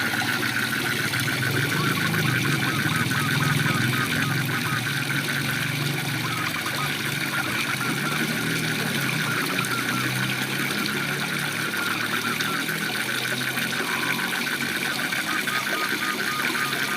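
Waterfall rushing steadily, with frogs calling over it: a fast pulsed trill and a lower, wavering chorus.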